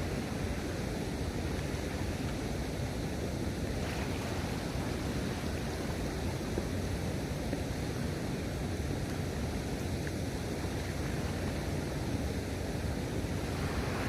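Steady rumble of wind on the microphone over the wash of sea waves, without any distinct splash or knock.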